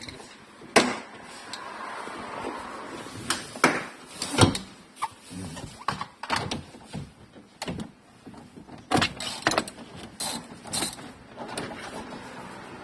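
Irregular clicks, knocks and scrapes of hand work on a car's sunroof assembly during its dismantling and repair, with the loudest knocks a little under a second in, at about four and a half seconds, and around nine to eleven seconds.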